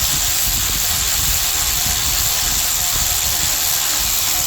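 A tool switched on, running with a loud, steady hiss that dies away shortly after.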